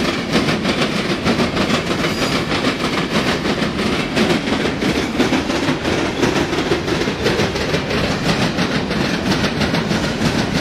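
Freight train of covered hopper cars rolling past, steel wheels clicking and clattering on the rails over a steady rumble.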